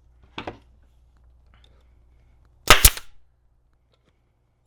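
Staple gun firing staples through a seat cover: a faint click about half a second in, then a loud, sharp double snap a little before three seconds.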